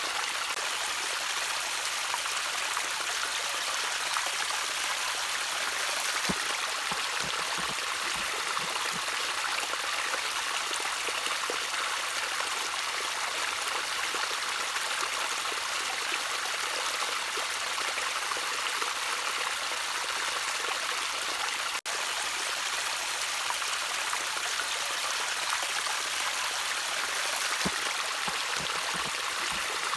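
Shallow stream of water trickling steadily over stones, with a few soft low gurgles now and then. The sound drops out for an instant a little past the middle.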